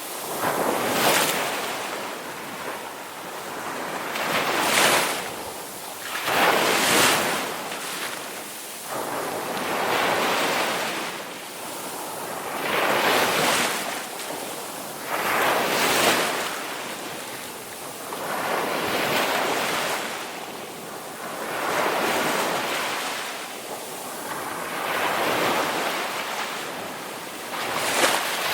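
Ocean waves breaking and washing on a shore, a steady rhythm of swells every two to three seconds, each rising to a hissing crash and then fading.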